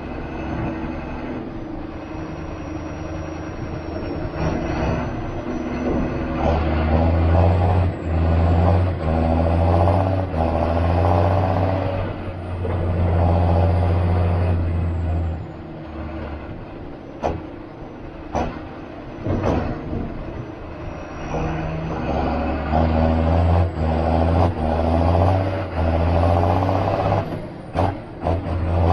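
John Deere 7530 Premium tractor's six-cylinder diesel working under changing load, pulling hard for long stretches and easing off in between, with a thin high whine rising and falling with it. A few sharp knocks come through in the middle and near the end.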